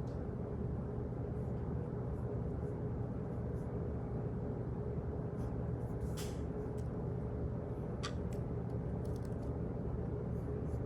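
Office ambience: a steady low room hum with scattered faint, irregular clicks and taps, one louder click about six seconds in.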